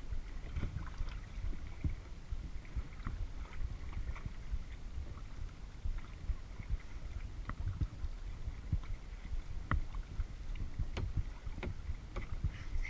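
Kayak being paddled: water splashing and dripping off the paddle blades in scattered sharp ticks and splashes, over a low rumble on the GoPro's microphone.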